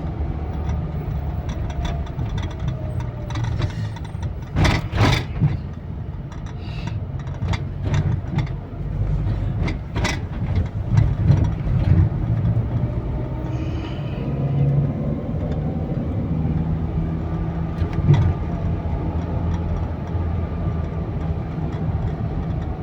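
A car driving, heard from inside the cabin: a steady low engine and road rumble, with a few sharp knocks about five and ten seconds in.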